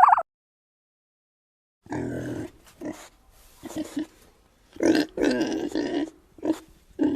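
Domestic pig grunting: a run of short, irregular grunts that starts about two seconds in.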